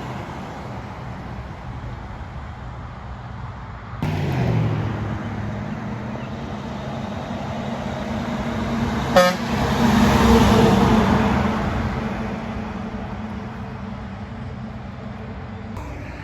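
Trucks passing on a road, their engines running with a steady drone; the sound changes abruptly about four seconds in. Just after nine seconds a brief horn toot sounds, then one truck's engine swells loudly past and fades.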